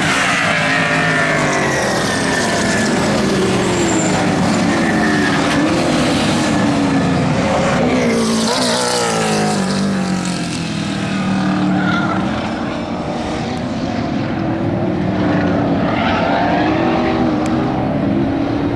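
Racing muscle car engines running hard at speed, their pitch rising and falling with revving and passes, with a sharp sweep about halfway through.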